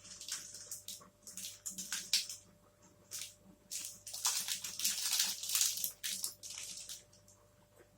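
Close-miked chewing and mouth sounds of someone eating a yogurt-coated protein bar: irregular wet crackles and clicks, denser and louder for a couple of seconds around the middle.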